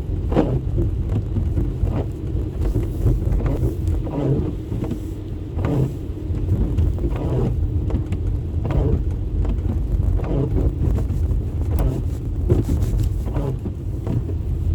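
Car driving, a steady low rumble of engine and road noise, with short faint sounds now and then.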